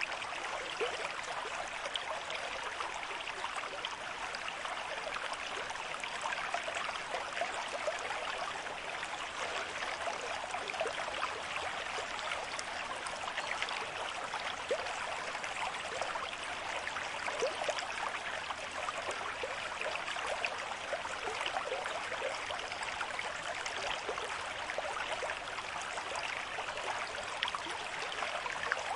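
River stream with a moderate flow of water running over stones, a steady rush full of small splashes and gurgles.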